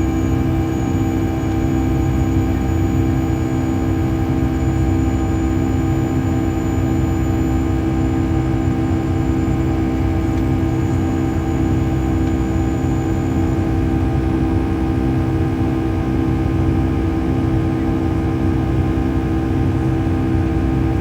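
Steady cabin drone inside a Boeing 757-200 on the ground: a low rumble under a constant hum from the engines at idle. A faint high whine stops about two-thirds of the way through.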